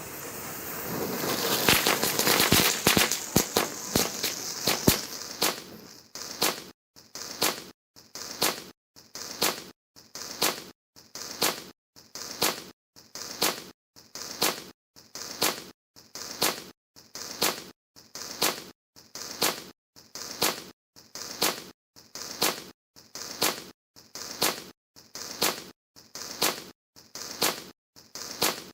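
Children's light firework burning: a dense crackling hiss for the first few seconds, then settling into short, evenly spaced crackling bursts, a little more than one a second, with silence between them.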